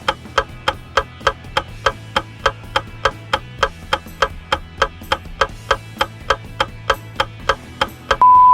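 Countdown-timer sound effect: fast, even clock ticks, about four a second, over a low steady background drone. Near the end a loud steady beep signals that time is up.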